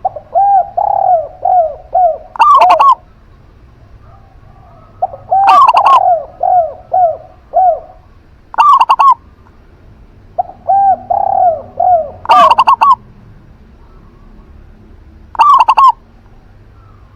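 Zebra dove and spotted dove cooing in turn: three phrases of several evenly spaced, rounded coos, and five short, much louder calls a few seconds apart.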